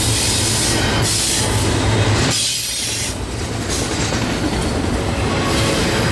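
Freight train rolling past close by: the steel wheels of the cars give a continuous hiss with some squeal over a low rumble, which drops away briefly a little over two seconds in.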